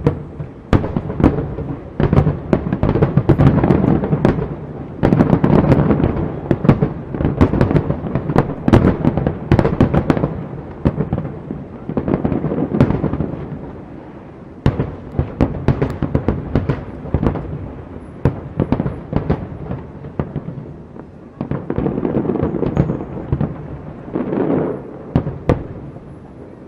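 Large aerial fireworks display: a dense barrage of shell bursts and sharp crackling reports, with booms rolling and echoing, coming in waves and thinning out near the end.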